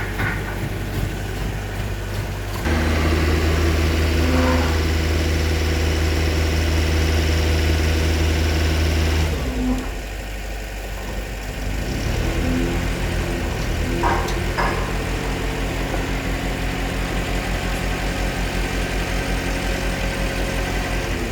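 Engine of a hydraulic concrete pile press running; it comes under load and gets louder about three seconds in, eases back around nine and a half seconds, then picks up again with a steady throb.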